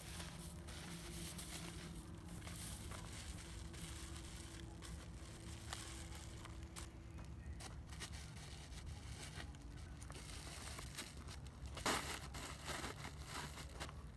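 Irregular crackling and rustling of dry wood and brush, with one louder crunch about twelve seconds in.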